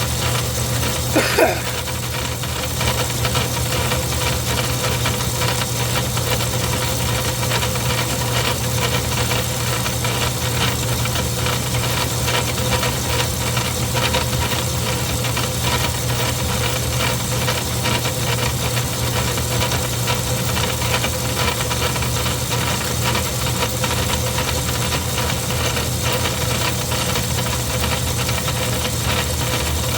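Craftsman 109 metal lathe running under power, with a lathe tool taking a cutting pass. A short knock about a second in, then a steady hum and whine with a fast, even rattle.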